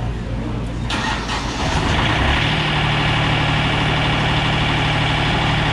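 Wood-Mizer LT50 portable sawmill's Yanmar diesel engine running, picking up speed about a second in and settling into a steady, higher run with a thin whine from about two seconds in.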